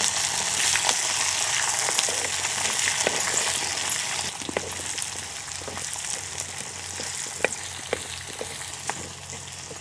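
Sliced onions and green chillies sizzling in hot oil in a clay pan as they are stirred with a wooden spatula, with occasional pops and clicks. This is the tempering stage of an upma, with lentils, mustard seeds and cumin already in the oil. The sizzle is strongest in the first few seconds and slowly dies down.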